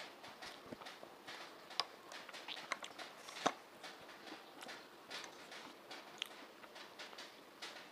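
Close-miked eating sounds: wet chewing and small mouth clicks while eating egg fry by hand. There are a few sharper clicks, the loudest about three and a half seconds in, as the cap of a plastic water bottle is twisted off. Near the end she drinks from the bottle.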